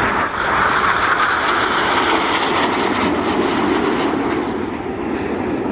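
Display aircraft flying past, its engine noise loud and steady, the higher part of the sound fading after about two seconds as the lower part grows.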